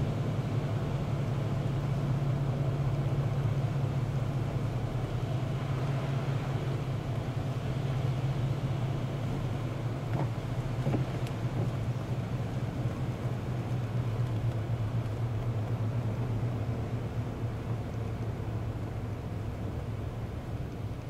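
Steady hum of a car's engine and road noise heard from inside the moving car's cabin, easing slightly near the end.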